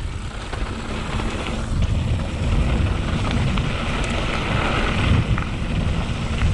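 Mountain bike riding fast down a dirt trail: wind buffeting the microphone over the steady rumble of tyres on dirt and gravel, with scattered small clicks and rattles from the bike.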